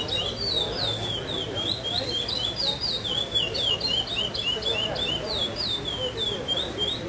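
Male curió (chestnut-bellied seed finch) singing a long phrase of the classic 'pardo' song: a quick unbroken string of clear whistled notes, each sliding down in pitch, that stops just before the end. Low crowd chatter runs underneath.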